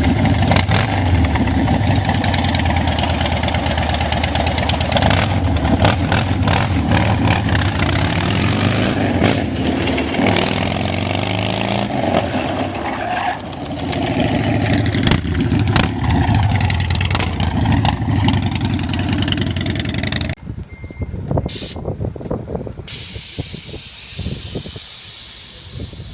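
Motorcycle engines running, with a steady low hum and pitch changes around the middle. About twenty seconds in the sound cuts to something quieter and broken up, ending in a steady hiss like spraying.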